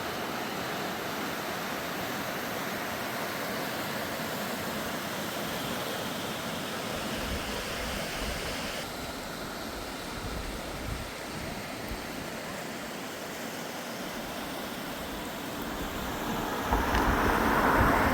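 Steady rushing noise, like flowing water or wind, getting louder near the end.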